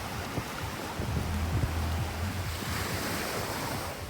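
Sea surf washing on the beach, with wind buffeting the microphone as a low rumble about a second in and a rising hiss of wash near the end.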